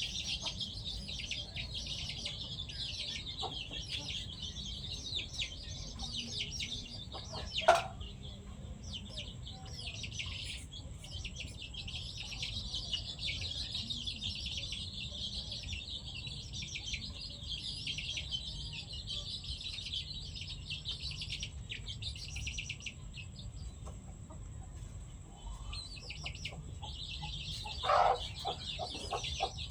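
Free-range chickens clucking while they feed, over a continuous chatter of high chirping. There is a louder chicken call about eight seconds in and another near the end.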